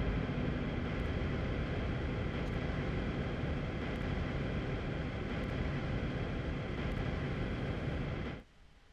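Dense, steady ambient noise drone from a DIY noisebox (a wooden box with springs and a doorstop, picked up by piezo contact mics) processed through audio software, with a few faint held tones inside the wash. It cuts off abruptly near the end.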